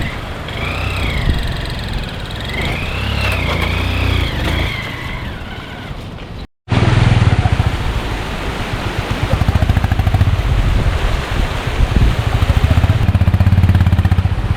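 Motorcycle engine running under way, with a high wavering whistle-like tone rising and falling over it in the first half. About two-thirds of the way in there is an abrupt cut, after which the engine is louder, with a fast, even throb.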